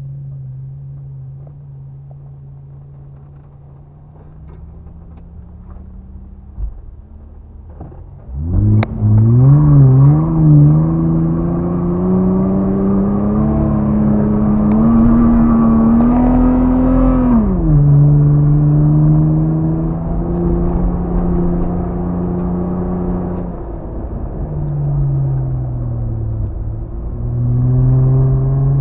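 Off-road vehicle engine driving in desert sand. It runs steadily and fairly quietly at first. About eight seconds in, after a short knock, it opens up loudly, its pitch climbing for nearly ten seconds before dropping sharply. It then runs steadily, dips, and rises again near the end.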